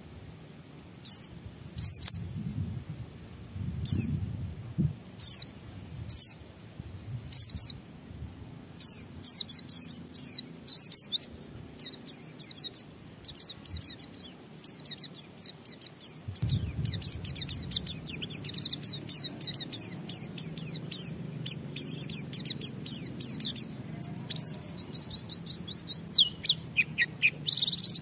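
White-eye (pleci) singing: single high chirps about once a second at first, then about nine seconds in it breaks into a long, rapid twittering song without pause. This is the sustained 'ngalas' song that keepers play to get other white-eyes singing.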